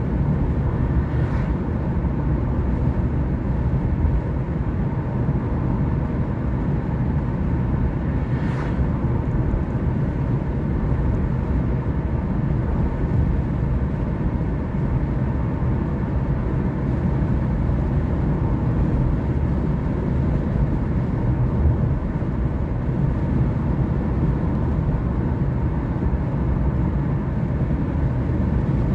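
Car driving at a steady pace: a constant low rumble of engine and tyre road noise. Two faint brief hissing sounds come through, about a second in and again about eight seconds in.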